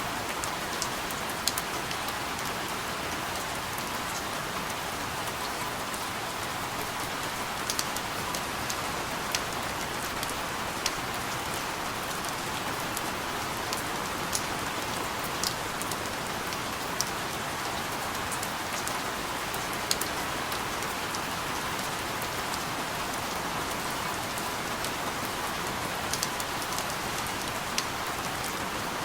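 Steady rain falling as an even hiss, with single drops ticking sharply every few seconds.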